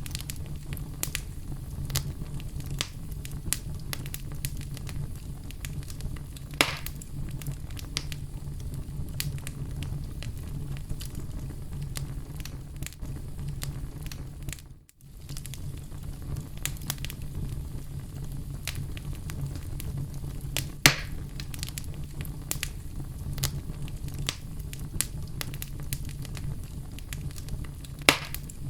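Oak logs burning in a fireplace: a steady low rumble of flame with frequent small crackles and a few louder pops. The sound briefly cuts out about halfway through.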